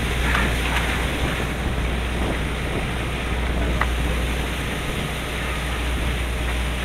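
Steady wind and sea noise on a sportfishing boat's deck over the low, even hum of the boat's engine, with a few faint ticks.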